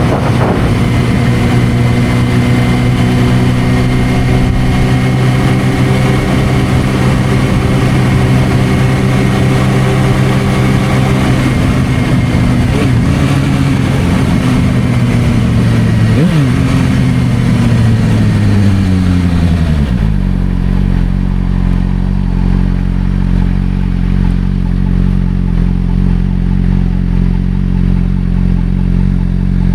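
Suzuki GSR600's inline-four through a Dominator aftermarket exhaust, running at steady revs with wind hiss on the microphone. About halfway through, the engine note falls over several seconds as the bike slows, and it settles to a steady idle as the wind hiss drops away.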